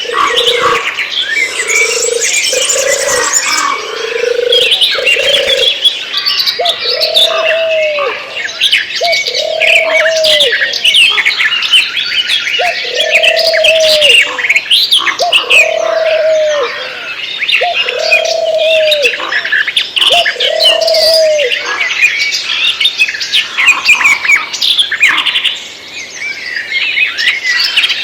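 A dense chorus of many birds chirping and twittering. Over the first two-thirds, a lower call repeats about a dozen times, one note every second and a half or so, then stops.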